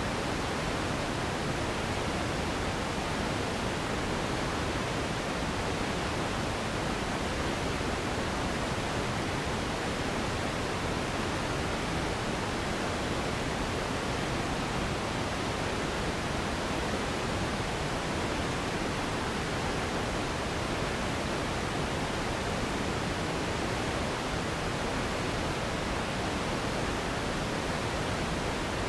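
Steady, unchanging sleep noise, a smooth hiss spread evenly across low and high pitches, a little softer in the highs, with no change in level.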